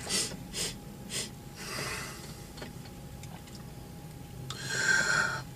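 A man sniffing at food: a few short, quick sniffs, then a longer, louder breathy sniff near the end.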